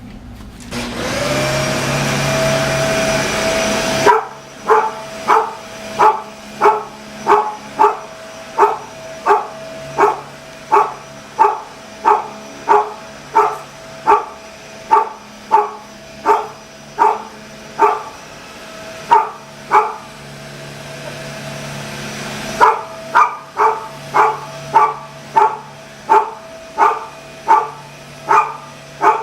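A vacuum cleaner motor spins up and runs steadily, and a collie barks at it over and over, about three barks every two seconds. The barking stops for a few seconds while the vacuum gets louder, then starts again.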